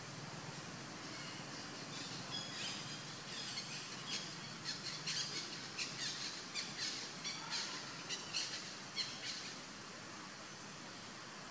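A bird calling in a quick run of short, high chirps, about two or three a second. They start about two seconds in and stop a couple of seconds before the end, over a steady background hiss of outdoor ambience.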